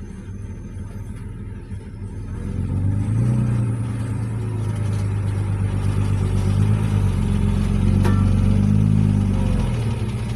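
Heavy diesel engine of an earthmoving machine running, its revs rising about three seconds in and then holding strong. A single sharp click comes near the end.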